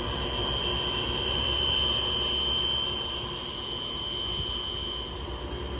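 Ice machine's condenser fan running, a steady high-pitched whistle over rushing air, swelling slightly about two seconds in. The whistle is the noise of a condenser fan motor on its way out, which the technician takes for the customer's complaint.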